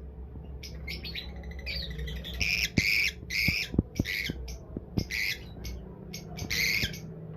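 A flock of lovebirds squawking and chirping in quick, harsh bursts of calls, with a few sharp clicks among them.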